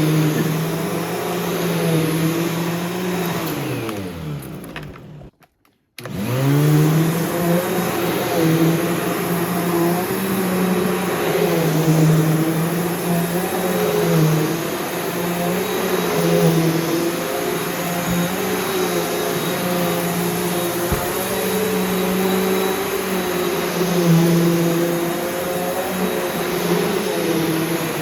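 Bissell PowerGroom Multi-Cyclonic upright vacuum cleaner's motor running. About four seconds in it is switched off and winds down to a brief silence, then it is switched back on and spins up. It then runs on with its pitch rising and falling a little as it works.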